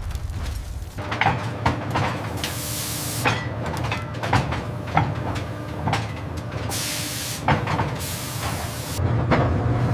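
Forge machinery at work: irregular sharp metal clanks over a steady low hum, with three bursts of hiss of about a second each.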